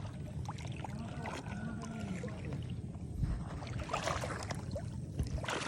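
Canoe moving on the water: steady noise of water around the hull with scattered splashes and knocks, and faint voices in the background.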